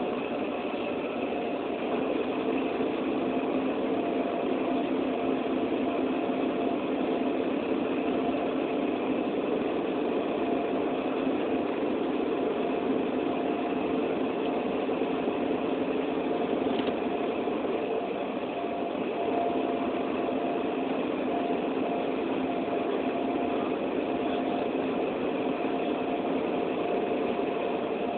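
Steady hum of a vehicle engine with several held tones over a constant hiss, unchanging throughout.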